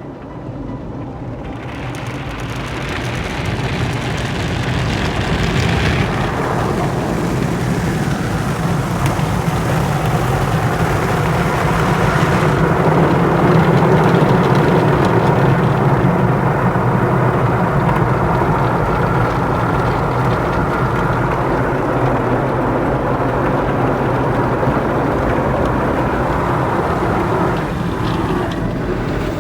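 Automatic car wash machinery running: a hiss of spraying water for the first few seconds, then a steady rushing noise with a low hum that eases off near the end.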